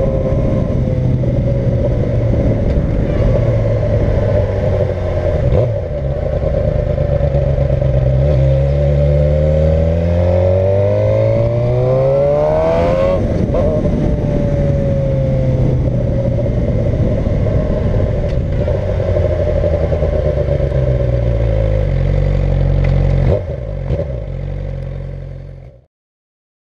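2011 Suzuki GSX-R600's inline-four engine breathing through a Radiant Cycles Shorty GP slip-on muffler, with the stock header and catalytic converter kept. It runs at a steady idle, revs up smoothly to a peak about halfway through, and drops back to idle. The sound drops and fades away near the end.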